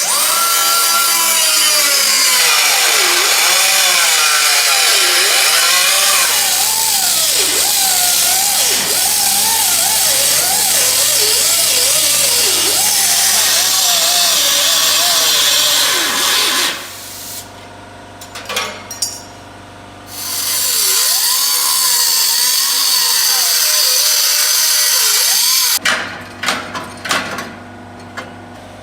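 A handheld power tool run in two long stretches, its pitch wavering up and down as the speed changes, with a few clicks and knocks in the pause between them and again near the end.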